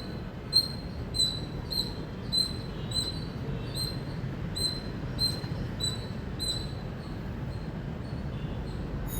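Indian palm squirrel giving a run of sharp, high-pitched chirps, a little under two a second, that grow weaker and stop about six and a half seconds in, over a steady low background rumble.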